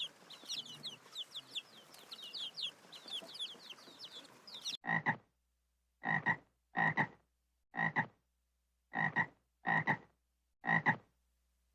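Chicks peeping in faint, high, falling cheeps. Then, after a sudden cut about 5 seconds in, a frog croaking over and over, each croak a short double pulse, about one a second.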